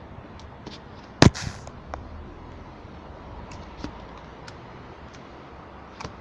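Slime being handled close to the microphone: one sharp, loud pop about a second in, then scattered small clicks and crackles.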